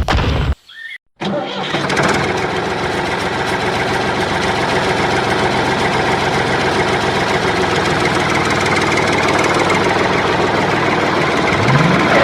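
An engine starts about a second in, after a short gap, and then runs steadily. A brief rising whine comes near the end.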